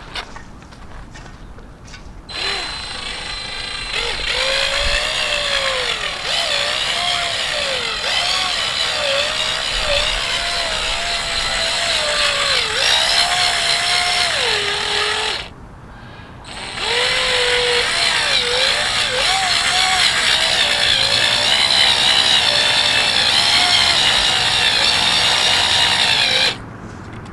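Cordless drill turning a mixing paddle through very thick two-part epoxy primer, its motor pitch wavering up and down as it labours. It runs in two long stretches with a short stop about halfway, then cuts off near the end as its battery goes dead.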